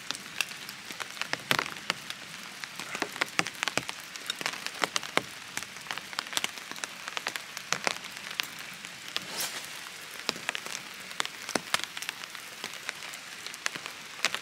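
Rain falling, with many irregular sharp raindrop ticks over a steady hiss.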